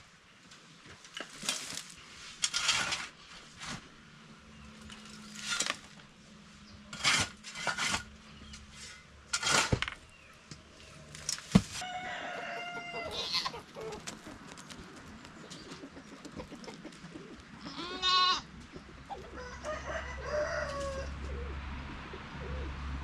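A series of sharp knocks and clatters, then, about halfway through, chickens calling: a rooster crows, with further clucking calls near the end.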